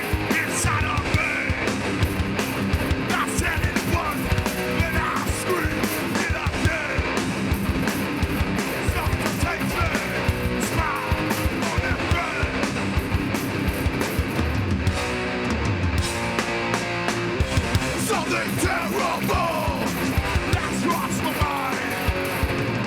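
Live heavy band playing loud and without a break: distorted electric guitars, bass and drums.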